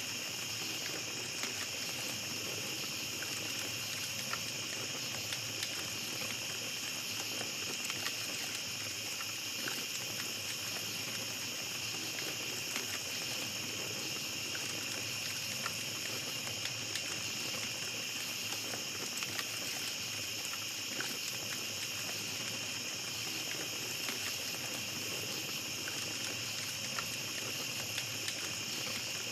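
Small campfire crackling with scattered small pops, over a steady high-pitched chorus of night insects.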